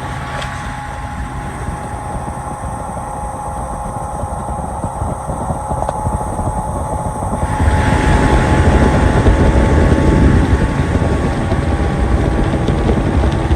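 Boat's outboard motor running steadily; about halfway through it gets louder and a rushing noise of water and wind comes in, as the boat picks up speed.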